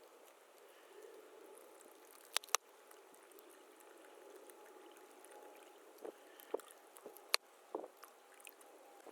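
Faint water sounds, sloshing and lapping, with two sharp clicks about two and a half seconds in, another near the seven-second mark, and a few soft knocks before and after it.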